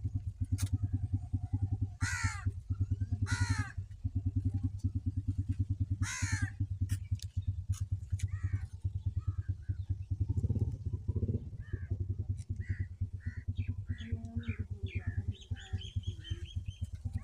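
Massey Ferguson 260 tractor's diesel engine idling with a steady, rapid knock, while a crow caws loudly three times in the first half and a smaller bird chirps in short notes near the end.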